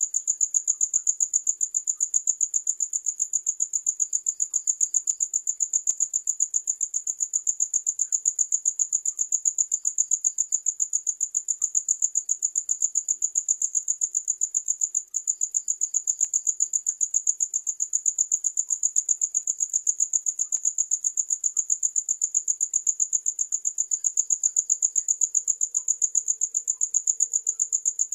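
Crickets chirping in a continuous, high-pitched trill that pulses rapidly and evenly, with a momentary break about halfway through.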